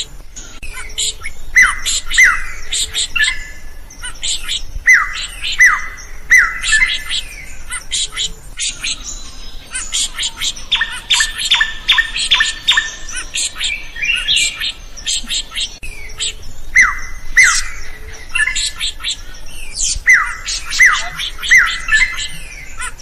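Drongo singing vigorously: a varied, unbroken run of repeated downslurred whistles, sharp clicking notes and chattering calls, with a harsh buzzy stretch in the middle.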